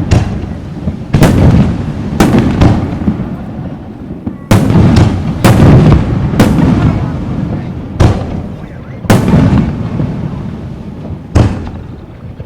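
Aerial firework shells bursting in quick succession: about nine deep booms, each trailing off in a rolling rumble before the next.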